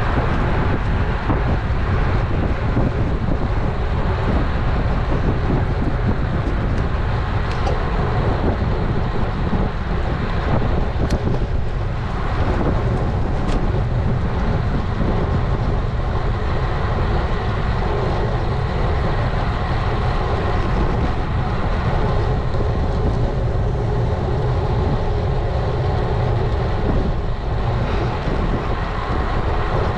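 Steady wind rush on an action camera's microphone and tyre noise from a road bike being ridden, with two faint ticks about eleven and thirteen seconds in.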